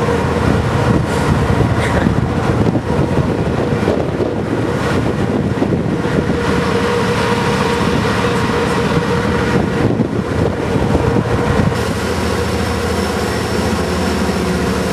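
Steady loud rumble and hum of a vehicle in motion, with a constant low engine drone that shifts in tone about twelve seconds in.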